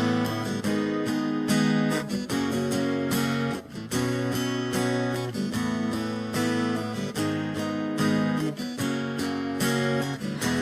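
Background music: strummed acoustic guitar playing chords in a steady rhythm, with no singing.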